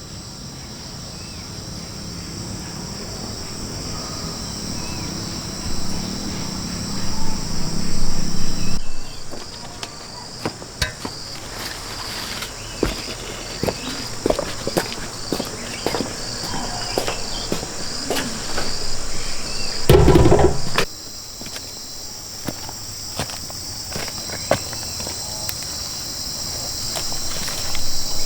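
Insects chirring steadily at a high pitch. Scattered light knocks and clicks sound through the middle, and one heavier thud comes about twenty seconds in.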